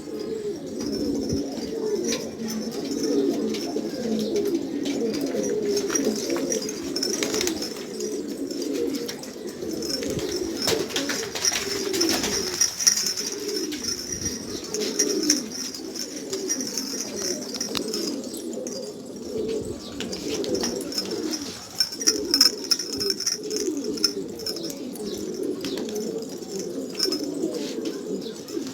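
Many domestic pigeons cooing at once, their overlapping low coos running without a break. A steady high-pitched chirring and scattered sharp clicks sit above them.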